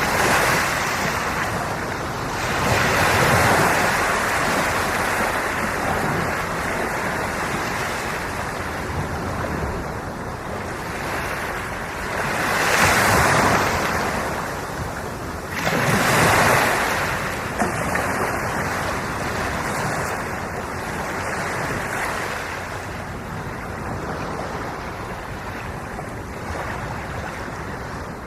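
Sea waves washing onto the shore in a steady wash of surf, with louder breakers surging in about three seconds in, and again around thirteen and sixteen seconds in.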